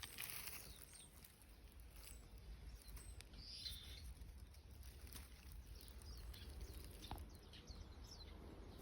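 Faint bird chirps: short, high calls scattered throughout, over a low background hum.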